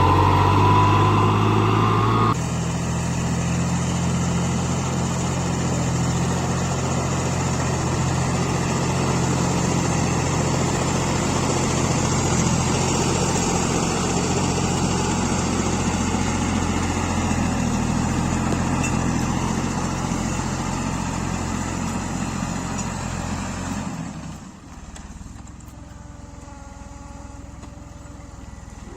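Small tractor engines running steadily while plowing, in separate clips cut together: the sound changes abruptly about two seconds in, and drops to a quieter engine near the end.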